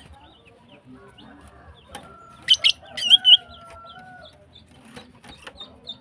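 Female green leafbird in breeding condition giving a few sharp, loud chirps around the middle, then a run of small high chips near the end. A rooster crows once in the background, a long held call lasting about two seconds.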